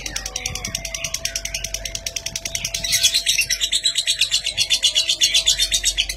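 Lovebird 'ngetik' chatter: a fast, even run of sharp high ticks, about a dozen a second, like typing. It grows louder about halfway through.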